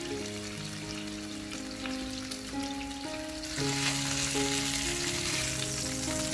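Salmon steak frying in melted butter, a steady sizzle that grows louder about three and a half seconds in, while the fish is lifted and turned in the pan.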